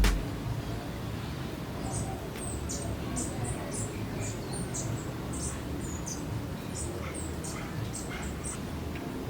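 A small bird chirping in a quick series of short, very high notes over a steady low background noise.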